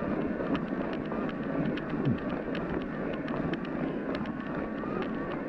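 Riding noise from a Cannondale Moterra SE electric mountain bike in snow: a steady rush of tyres and wind, with many small clicks scattered through it and a faint wavering whine.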